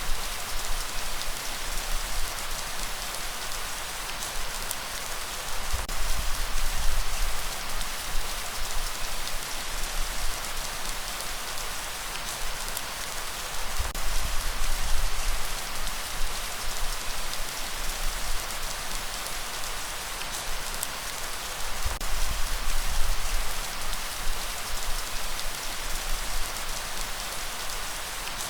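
Steady, heavy rain hiss with no let-up, and a deeper surge swelling about every seven to eight seconds beneath it.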